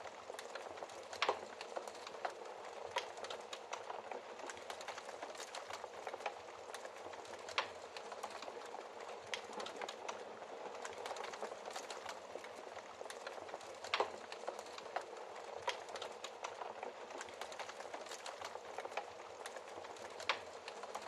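Wood fire crackling steadily in a fireplace, with many small snaps and a few louder pops scattered through, the strongest about two-thirds of the way in.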